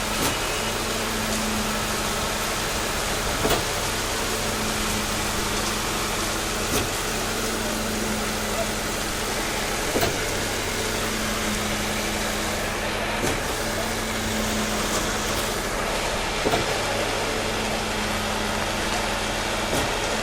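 A motor-driven machine running steadily, with a low hum that swells and fades and a short knock repeating about every three seconds, over a steady hiss.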